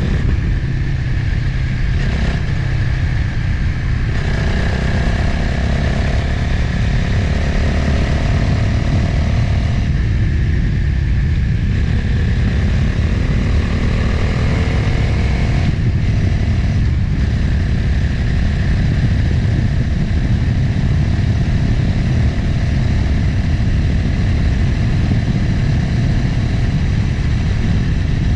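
Motorcycle engine running under way, with heavy wind noise on the microphone; the engine note shifts in pitch for a while in the middle as the rider changes speed.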